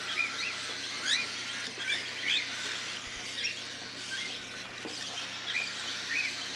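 Young cockatiels chirping: short, high calls repeated every half second or so, over a faint steady hiss.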